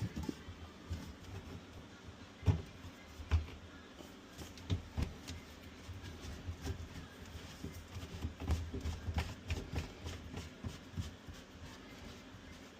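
Scattered knocks, clunks and small clicks of a hose being worked onto a garbage disposal under a sink. The loudest knocks come about two and a half and three and a half seconds in, with a busier run of small clicks later on.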